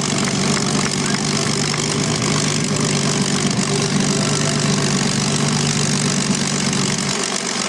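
Piston aero engines of World War II warbirds running steadily, a loud drone with a deep hum that drops away about seven seconds in.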